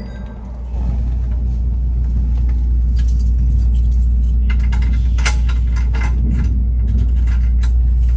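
Kintetsu Hinotori limited express train running: a deep, steady rumble that grows louder about a second in, with clusters of sharp rattling clicks from about three seconds on.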